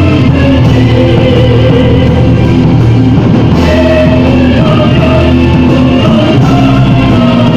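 Gothic metal band playing loud, with electric guitars and a drum kit; sustained held notes run without a break.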